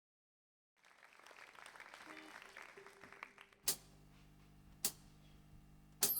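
Faint audience applause dying away, then two sharp clicks about a second apart, and the band starts with a loud entry just before the end.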